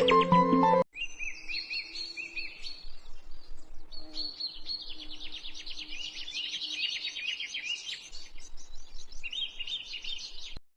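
Small birds chirping, with quick runs of short, high, repeated notes. A piece of music cuts off about a second in, just before the chirping begins.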